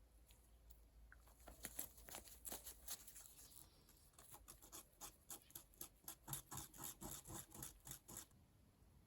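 Faint, quick, regular strokes of hand work, such as scraping or filing, about three to four a second. They start about a second and a half in and stop near the end.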